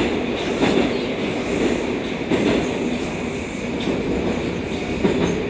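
Moscow Metro 81-760 'Oka' train running through a tunnel, heard inside the carriage: a steady rumble of wheels on rail with a few irregular clicks over the rail joints, and a steady tone coming in near the end.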